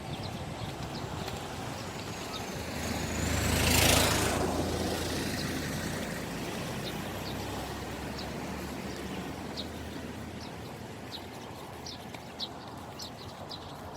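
A motor vehicle drives past, rising to its loudest about four seconds in and then slowly fading away, with a low engine hum under the tyre noise.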